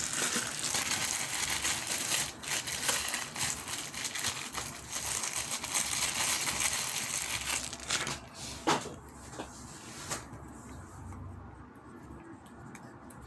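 Plastic wrapping crinkling and rustling as a lump of red cold-porcelain modelling dough is taken out and unwrapped; it goes much quieter after about ten seconds.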